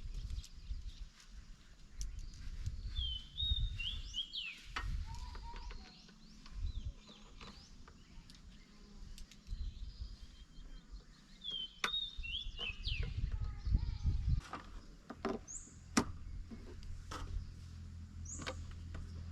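A bird calls a short phrase of quick chirped notes three times, with a few higher single notes later, over scattered sharp clicks and knocks and a low rumble. A steady low hum sets in about three quarters of the way through.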